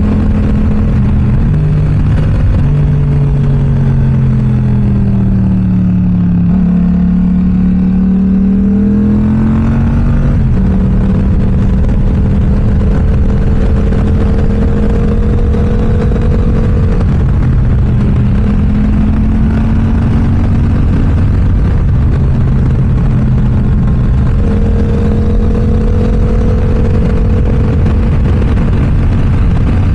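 Yamaha R7's parallel-twin engine through an aftermarket M4 exhaust while riding. The engine note sinks for a few seconds, climbs sharply about ten seconds in, then holds fairly steady with gentle rises and falls in revs.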